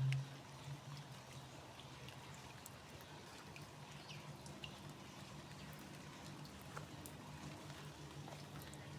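Light rain with scattered drops dripping and ticking over a steady low hum, with a few faint short chirps around the middle.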